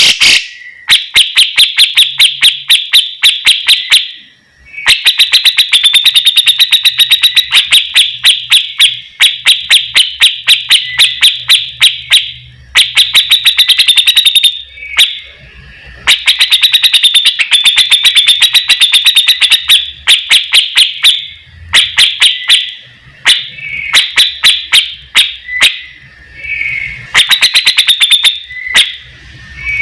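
Recorded songbird song used for training: long phrases of fast, sharp ticking notes, several a second, broken by short pauses.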